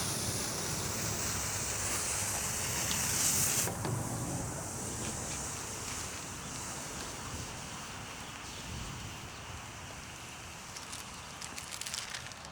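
Lit smoke ball hissing as it burns, a steady high hiss that cuts off suddenly about four seconds in. Wind rumbles on the microphone beneath it and goes on fainter after the hiss stops.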